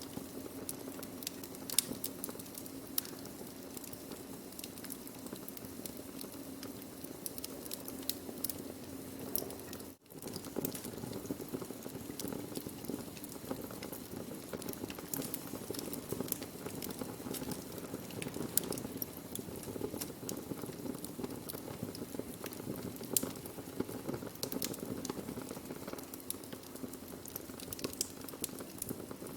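Burning wood fire crackling: frequent sharp pops and snaps over a steady low hiss of the flames. The sound cuts out for a split second about ten seconds in.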